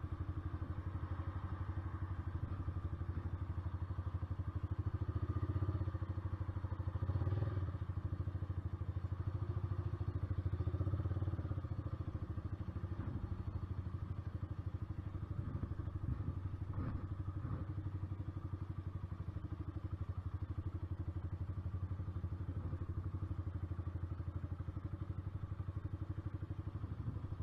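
Honda CBR125R's single-cylinder four-stroke engine running steadily at constant revs. A couple of light knocks come through about seven and seventeen seconds in.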